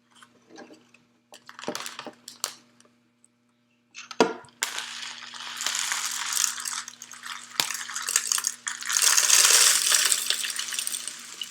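Bird seed poured into a plastic bottle down a cardboard chute: a few scattered rattles and clicks at first, then from about four seconds in a continuous rattling hiss of seed streaming in and spilling over.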